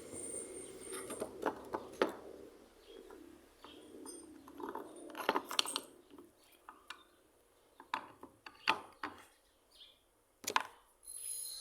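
A series of scattered sharp clicks and light knocks, irregularly spaced, over a low hum that fades out about halfway through.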